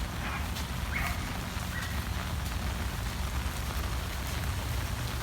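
Swollen, fast-flowing floodwater of the Ross River rushing, heard as a steady even hiss, with wind buffeting the microphone.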